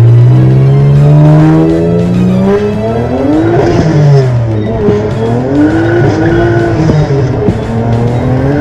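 Twin-turbocharged 3.7-litre J37A1 V6 of an Acura TL Type-S revving under power. The engine note climbs for about two and a half seconds, drops, and then rises and falls again a few more times.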